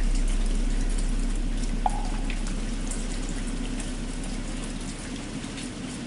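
Steady rain falling, with the low hum of a large bell slowly fading away, and a single knock on a wooden fish (muyu) about two seconds in.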